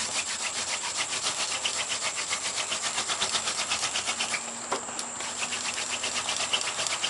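Yucca spindle twirled back and forth between the palms on a paulownia hearth board, wood rubbing on wood in quick, even strokes as the spindle tip is mated (burned in) to the board. A brief pause comes a little past the middle.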